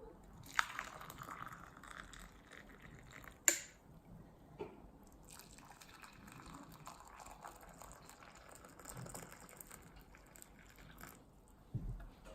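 Liquid running or being poured in two stretches, with a sharp click about three and a half seconds in and a few soft knocks.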